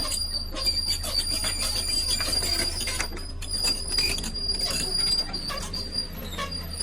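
Excavator at work among stones: a steady low engine drone and a high whine, with frequent sharp knocks and scrapes of metal and rock.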